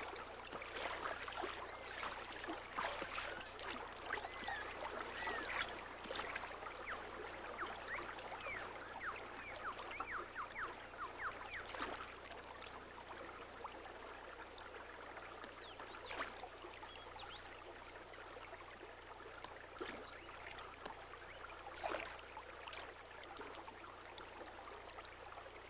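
Stream water trickling and gurgling, with many small bubbling blips in the first half that thin out after the middle.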